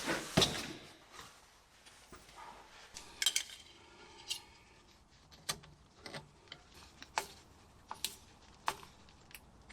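Small metal parts and tools clinking and clicking as they are handled: about a dozen sharp, irregular clinks, the loudest one near the start.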